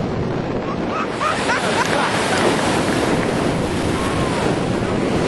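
Wind buffeting the microphone over the steady wash of surf on a beach, with a few faint short cries rising and falling about one to two seconds in.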